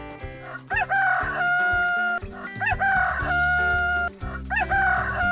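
Rooster crowing cock-a-doodle-doo three times, each crow ending in a long held note, over light background music.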